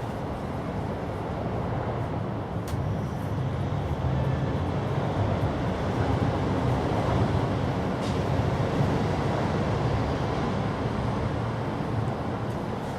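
A steady low rumbling noise that swells about a third of the way in and eases again near the end, with a couple of faint clicks.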